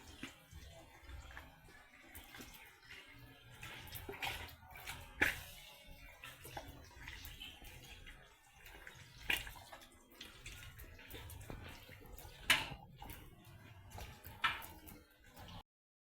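Water being handled in a basin: irregular sloshing with several sharper splashes, the loudest about five, nine, twelve and fourteen seconds in.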